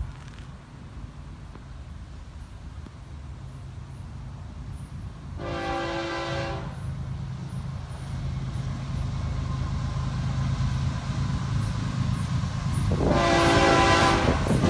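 Approaching diesel freight locomotives, Florida East Coast Railway GE ES44C4s, with a steady low engine rumble that grows louder throughout. The horn sounds a short chord about five and a half seconds in, then a longer blast begins near the end.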